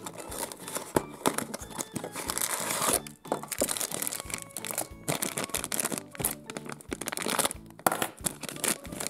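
Crinkly plastic bag and candy wrapper from a Sweet Box surprise box rustled and crumpled by hands, crackling irregularly, with some tearing.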